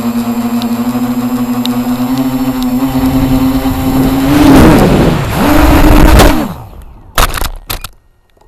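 Radio-controlled helicopter's motor and rotor running with a steady whine that climbs slightly, dips and swells twice, then winds down and stops. A few sharp knocks follow.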